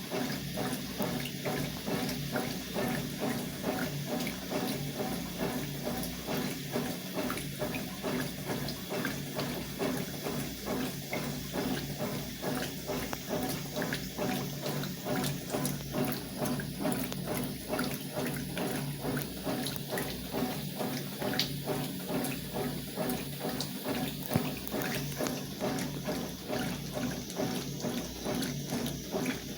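Consul CWS 12 washing machine in its rinse cycle: water rushing and sloshing in the tub in a steady, evenly repeating churn.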